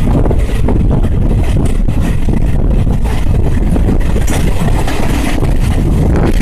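Jan Shatabdi Express passenger train running along the line: a loud, steady rumble of wheels on the rails with rattling from the coach.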